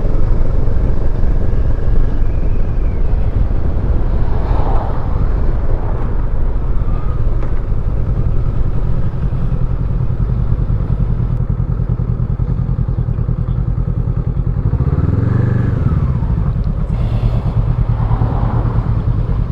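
Motorcycle engine running at low road speed, with a brief rev that rises and falls about fifteen seconds in.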